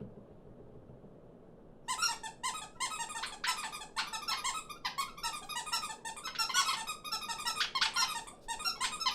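A flock of cartoon small birds chattering and squawking over one another in quick, high-pitched squeaky bursts. The chatter starts about two seconds in, after faint background hiss.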